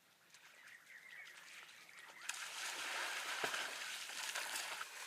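Water splashing and sloshing, swelling louder about two seconds in.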